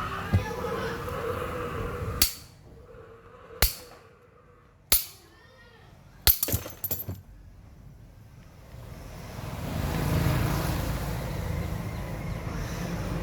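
Sharp metallic clinks, four single strikes a second or so apart and then a quick cluster, followed by a low rumbling noise that builds up near the end.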